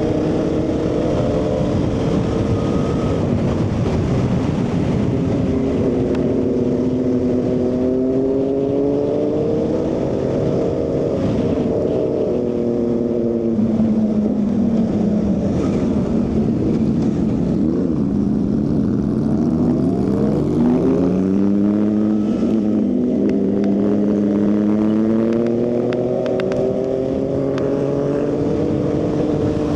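Motorcycle engine running through its exhaust under way, the revs climbing and dropping back several times, with a long dip and slow climb in the middle.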